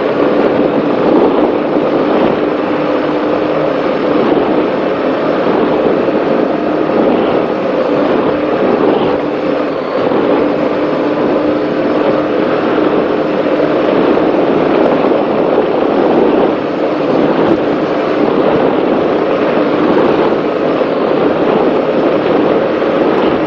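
Offshore racing powerboat's engines running hard at speed, a steady loud drone under a rush of wind and water noise on the onboard microphone.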